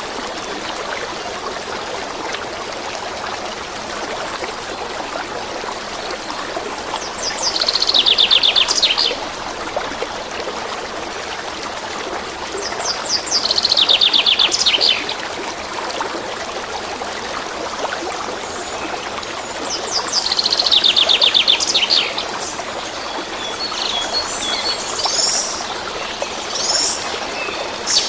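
Water running steadily, like a stream, while a songbird sings a rapid trill three times, each lasting about a second and a half, with a few shorter chirps near the end.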